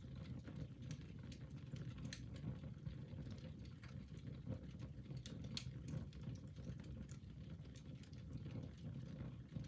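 Wood fire burning in a fireplace: irregular small crackles and pops over a steady low rumble.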